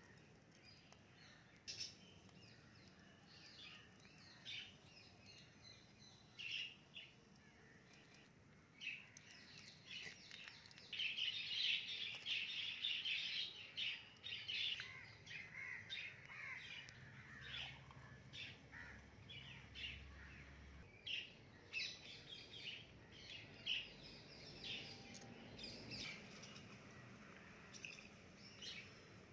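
Birds chirping and calling, with many short high chirps throughout and a dense run of chirping about eleven to fourteen seconds in.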